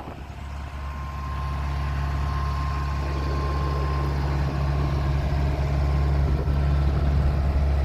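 Bobcat 743 skid steer's diesel engine running steadily with a low drone, growing louder over the first second or so, then holding even.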